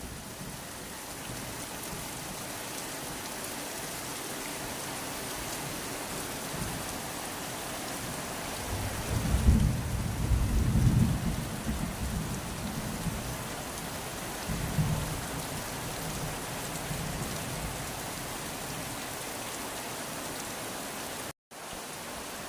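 Heavy rain falling steadily, with thunder rumbling in low rolls about halfway through and again briefly a few seconds later. A split-second dropout near the end, after which the steady rain noise resumes.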